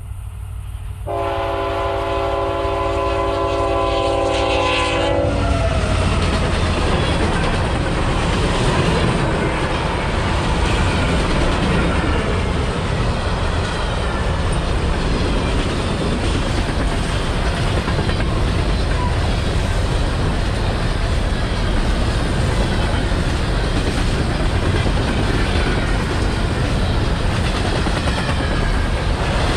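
A locomotive's air horn sounds one long chord of several notes, about four seconds long and starting about a second in, over the low rumble of an approaching train. The train then passes close by with a steady rumble and clatter of wheels on rail.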